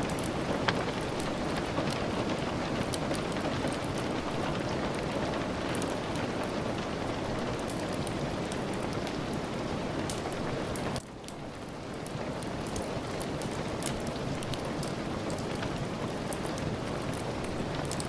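Steady rain, with scattered sharp crackles of a wood fire over it. About eleven seconds in, the sound drops suddenly and then swells back up.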